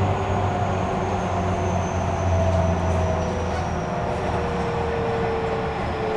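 Running sound of a Tobu Railway electric train heard from inside the car: the traction motor and inverter whine falls steadily in pitch over a rumble from the rails and wheels, as the train slows.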